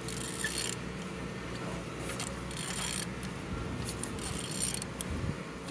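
BMW N47D20 2.0-litre four-cylinder diesel engine being turned over by hand. Several strokes of scraping, clicking mechanical noise about every second and a half, over a steady low hum. It turns well, a sign the engine is not seized.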